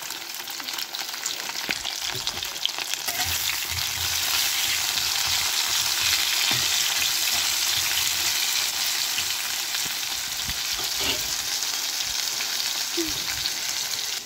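Potato wedges with turmeric and salt sizzling in hot oil in a kadhai, stirred with a metal spatula that scrapes and clicks against the pan. The sizzle grows louder about three or four seconds in.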